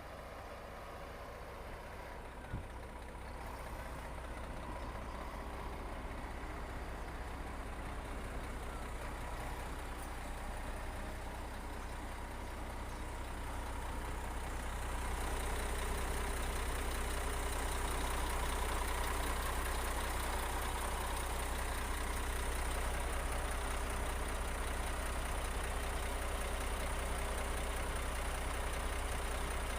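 Heavy construction machine's engine running steadily with a low hum, growing louder about halfway through, as if the machine is coming closer or working harder. A single short knock sounds about two and a half seconds in.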